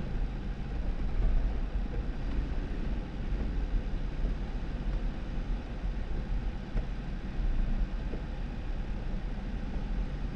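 2018 Jeep Wrangler driving on a snow-covered dirt road: a steady deep rumble of engine and tyres rolling over snow, with a light hiss, unbroken and with no single loud event.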